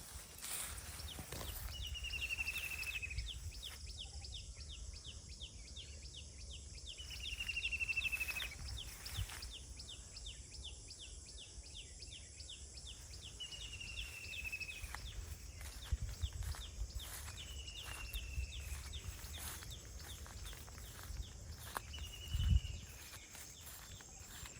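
A bird calling again and again, a short falling trill about every four to five seconds, over a steady low rumble and a faint fast ticking.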